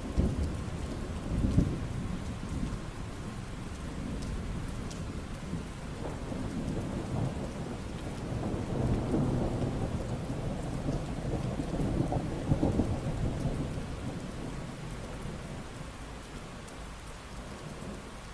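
Steady rain falling, with rolling thunder rumbling under it. There is a sharp peak about a second and a half in and a longer swell of rumble in the middle. The thunder dies away near the end, leaving the rain.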